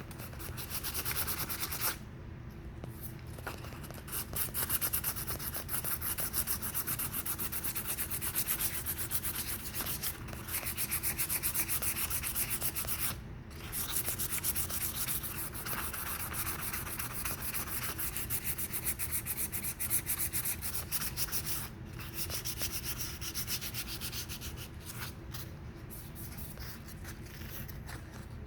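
Sandpaper rubbing over high-build epoxy primer on a car body panel, cutting the orange peel out of the primer. The sanding runs steadily, with short breaks about 2, 13 and 22 seconds in.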